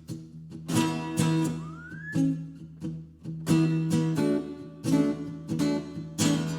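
Acoustic guitar strummed in a steady rhythm, with a short rising whistle about two seconds in.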